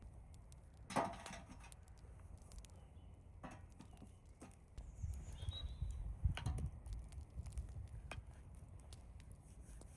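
Wind rumbling on the microphone, gusting harder in the middle, with a few scattered sharp knocks and taps, the loudest about a second in.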